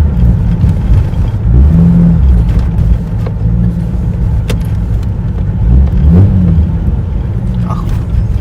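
Jeep Cherokee XJ with a loud aftermarket exhaust driving, its deep engine note rising and falling as it accelerates and eases off a few times.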